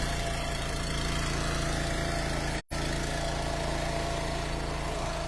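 Eastonmade Ultra wood splitter's small gas engine running steadily just after catching on the first pull, still on choke from a cold start. The sound cuts out for a split second about two and a half seconds in.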